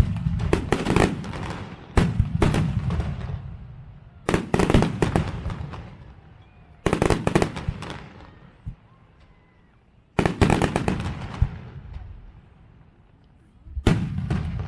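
Fireworks display: aerial shells bursting in volleys of sharp bangs every two to four seconds, each volley followed by crackling that fades over a second or two.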